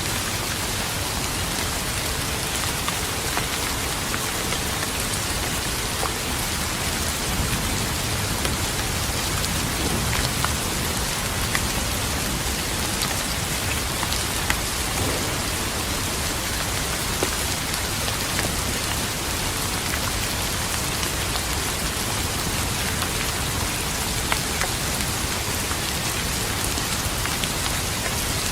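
Steady, dense rain falling on a surface, a constant hiss with scattered sharp ticks of single drops.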